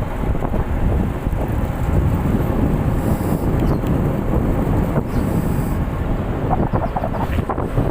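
Tug boat's engines running steadily as a dense low rumble, with wind on the microphone. A few short knocks come about six and a half to seven and a half seconds in.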